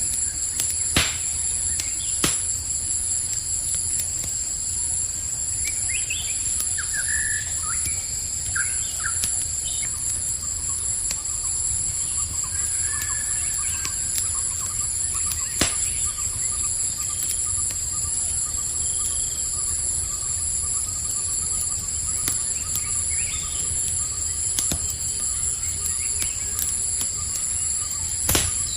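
Campfire crackling, with a few sharp pops standing out, over a steady chorus of crickets. Short chirping calls come in about six to nine seconds in.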